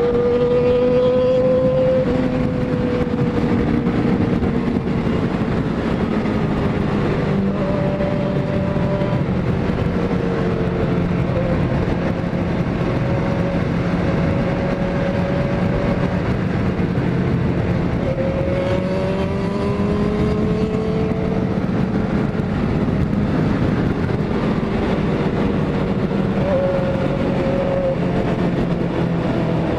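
Kawasaki ER-6n parallel-twin motorcycle engine running at a steady cruise, its note drifting gently up and down with small throttle changes, over a constant rush of wind and road noise.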